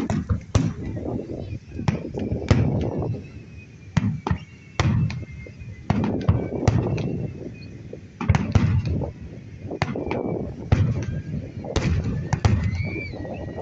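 Fireworks display: shells bursting in an irregular string of sharp bangs and crackles with deep booms between them.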